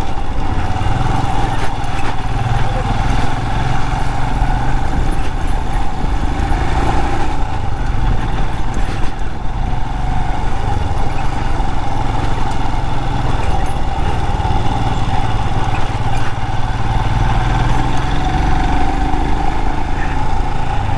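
Motorcycle engine running steadily while riding along a road, a continuous hum with no marked revving.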